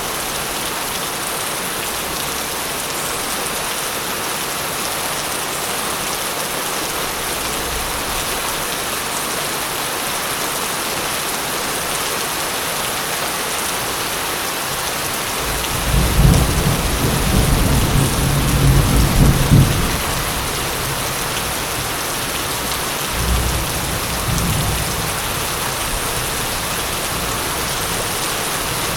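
Steady heavy rain hissing, with a roll of thunder rumbling loudly for about four seconds past the middle and a shorter, weaker rumble soon after.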